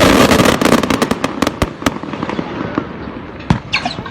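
Fireworks going off: a dense crackling barrage breaks off about half a second in into a quick run of separate sharp cracks that thin out, with one more crack near the end.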